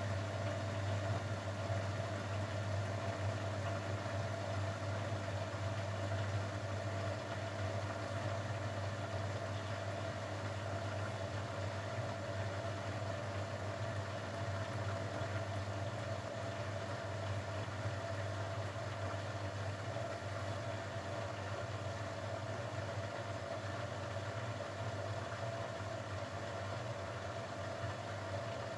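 Grundig washing machine running steadily, a continuous motor hum with a whir from the drum, with no pauses, as in a spin.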